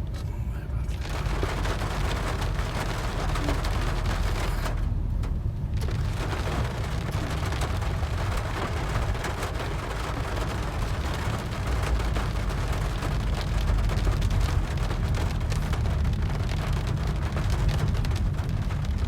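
Rain falling steadily, with a constant low rumble beneath it.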